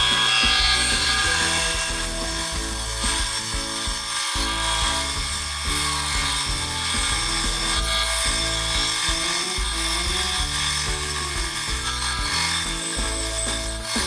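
Band saw blade cutting steadily through a thick block of wood, a continuous hiss that starts abruptly at the outset, mixed with background music.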